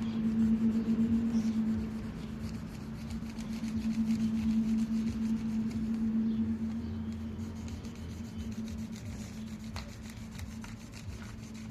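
Scratchy rubbing of colouring strokes on paper, uneven and ongoing, over a steady low hum.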